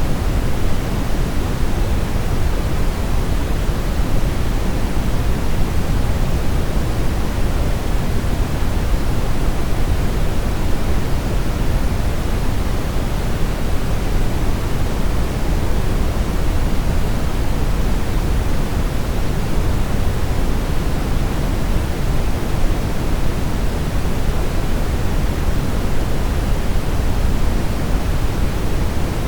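Steady brown noise: an even, deep rushing hiss, strongest in the low end and dull in the highs, with no changes.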